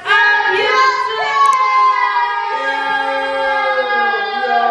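High voices singing long held notes, several voices overlapping.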